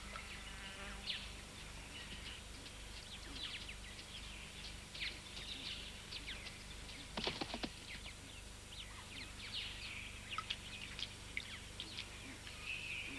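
Bush ambience of many small birds chirping and twittering, with a couple of louder calls about seven seconds in and a faint steady low hum underneath.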